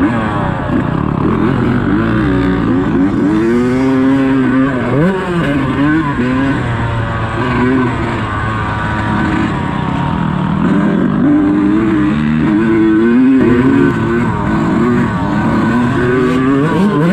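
Dirt bike engine on a motocross track revving hard and easing off again and again, its pitch climbing and dropping with the throttle and gear changes.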